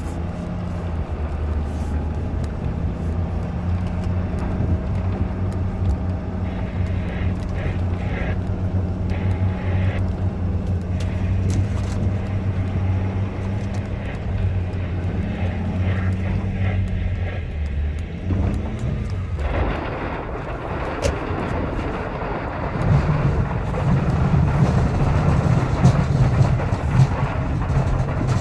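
2016 Ford F-250's 6.7L Powerstroke V8 diesel running steadily while plowing snow. About two-thirds of the way through, the sound turns rougher and louder.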